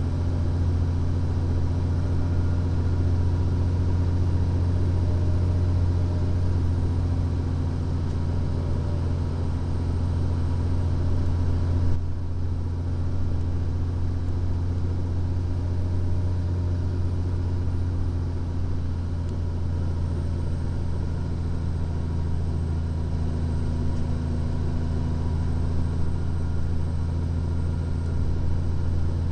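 Steady low drone of a 2014 Freightliner Columbia glider semi-truck's engine, with road noise, heard inside the cab on a long steep downgrade. There is a brief bump about twelve seconds in.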